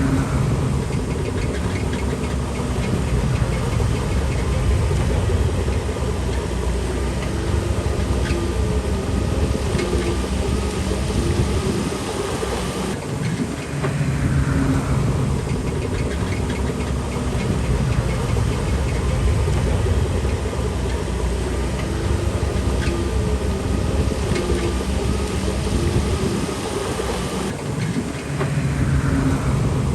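Diesel engine of a Shantui DH17C3 Pro bulldozer working, running heavily with dense clatter throughout. The sound shifts abruptly about halfway through and again near the end.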